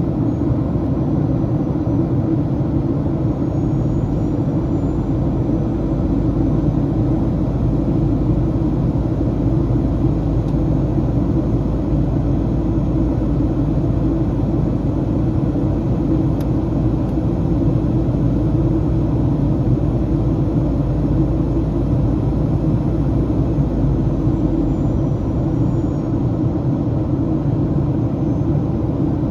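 Steady cabin noise inside a Boeing 737-800 in flight: a deep, even rumble of airflow and its CFM56-7B jet engines, with no change through the stretch.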